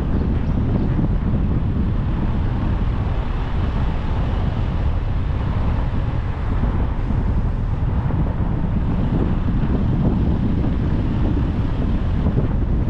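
A car driving along a road: a steady, low rumble of tyre and wind noise.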